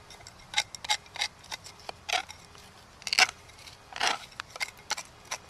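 A rapid, irregular series of sharp clicks and knocks of hard objects, with two short scrapes near the middle.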